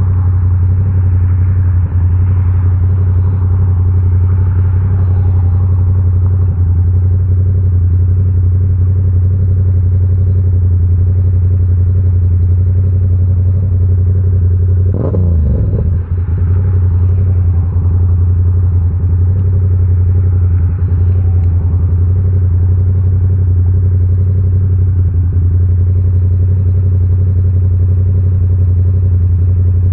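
Yamaha R7's 689 cc parallel-twin engine running through an SC Project CR-T exhaust while riding at a steady engine speed. About halfway through, the engine note briefly dips and wavers, then settles back.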